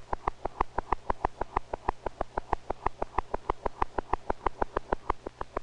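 A bird's fast heartbeat, amplified: a rapid, even run of short beats, about nine a second, over a steady low hum.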